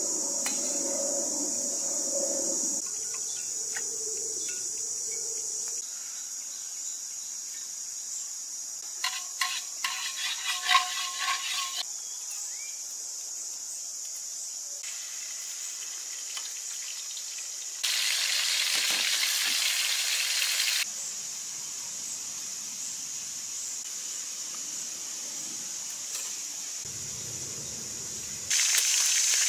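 Food cooking on a charcoal stove, with a steady high insect drone behind it. Metal utensils clink and ring about ten seconds in. Food sizzles loudly in hot oil in a wok for a few seconds past the middle, and again near the end.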